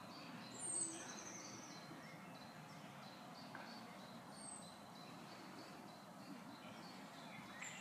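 Small birds calling: a high, thin descending trill about a second in, a short high note midway and another trill at the end, over a faint chirp repeated about three times a second and a low, even background hiss.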